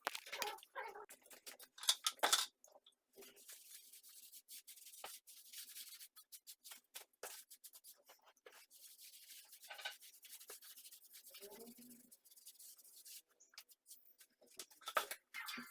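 Plastering tool scraping and rubbing over a wall in short, irregular strokes as decorative plaster is worked, with scattered light clicks.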